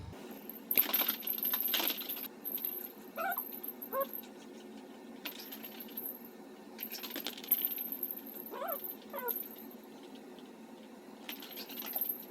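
Bedding rustling in several bursts as a poodle burrows into a blanket, with four short high whines, in two pairs, a second apart.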